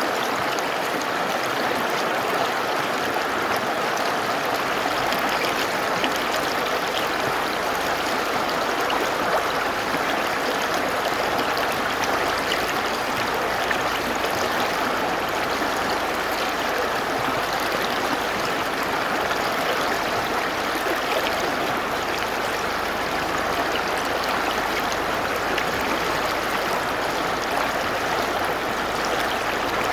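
Mountain river rushing over rocks, a steady dense rush of water.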